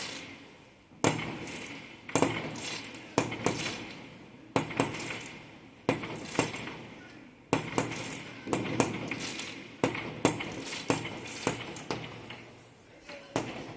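Fireworks going off in quick succession: a sharp bang every second or so, each trailing off in crackling.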